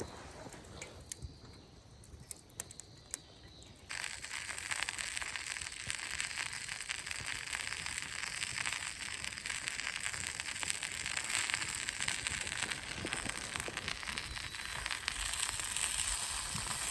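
Chicken sizzling and spitting in its own fat as it cooks over the heat; the sizzle starts suddenly about four seconds in and carries on steadily. Before that there are only a few scattered crackles.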